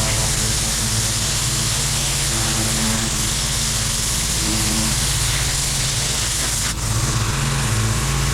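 Pressure washer running steadily: a loud, even hiss of water spray blasting the paver patio over the low, steady note of the washer's engine.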